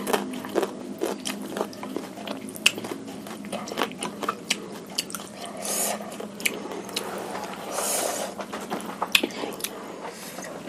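Close-miked eating: biting and chewing meatballs and fresh bird's eye chilies, with irregular wet clicks and crunches and a couple of longer slurping sounds about six and eight seconds in.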